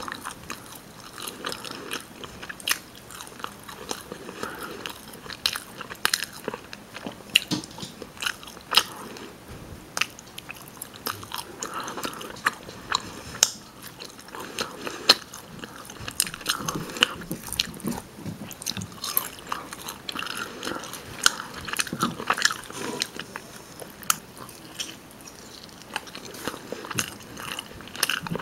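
A person chewing and biting rotisserie chicken, close-miked, with wet mouth sounds and many sharp, irregular clicks throughout.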